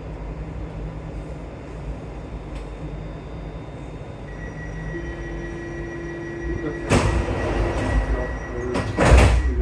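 Rubber-tyred MP14 metro train running through a tunnel with a steady low rumble. A thin whine joins about four seconds in. Near the end come two loud rushing bursts of noise, the second the louder.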